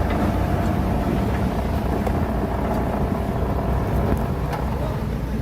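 Diesel engine of heavy earthmoving equipment running steadily, a low rumble with a steady higher hum above it.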